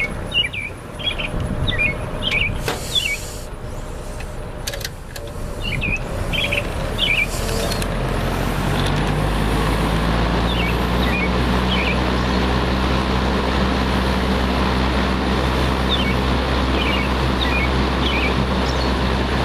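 Frigid B3300 box fan, with four-wing metal blades, starting up about eight seconds in: its motor hum builds and then holds steady. Birds chirp in the background throughout.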